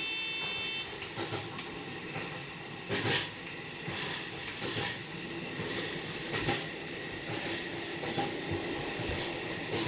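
Electric commuter train running, heard from inside the car: a steady rumble of wheels on rail with a couple of louder knocks. A brief high ringing tone sounds at the very start.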